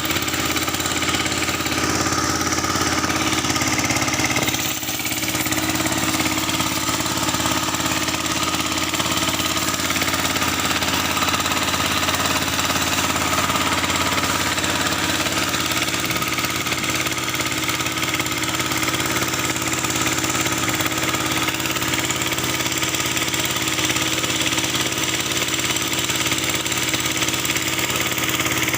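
Kubota L3608 tractor's diesel engine running steadily, with a brief dip about four seconds in.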